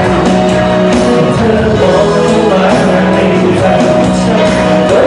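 A live performance of a Thai pop song: a male singer's voice over instrumental accompaniment.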